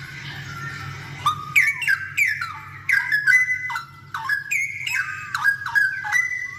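Straw-headed bulbul singing loudly: a quick, bubbling run of clear whistled notes that swoop up and down, starting about a second in, over a steady low hum.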